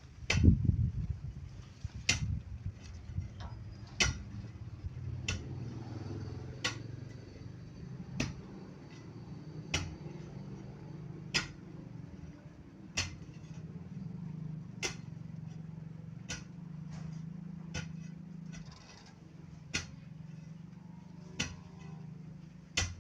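Sharp knocks at an even pace, about one every second and a half, over a low steady hum.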